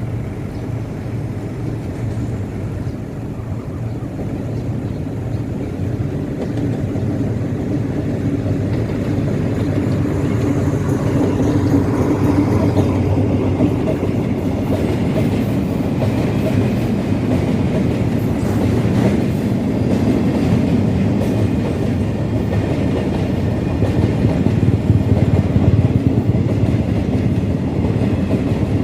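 Diesel train running on the rails: a steady low rumble with wheel clatter, growing louder over the first dozen seconds and then staying loud.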